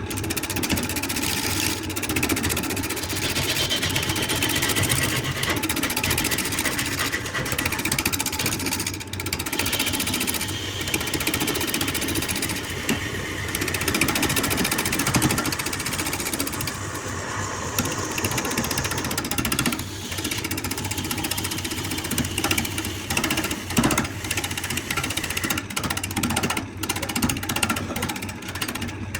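Motorized woodworking machinery running while it works wood: a steady mechanical noise broken by frequent knocks and rattles.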